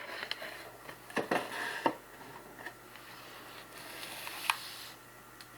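Handling of a cardboard trading-card box and its packs: a few scrapes and taps between one and two seconds in, faint rustling later, and a single sharp click about four and a half seconds in.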